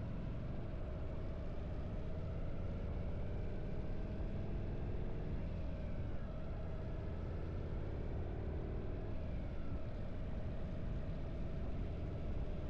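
Harley-Davidson air-cooled V-twin motorcycle engine running steadily on the road, its pitch rising and falling slightly about halfway through.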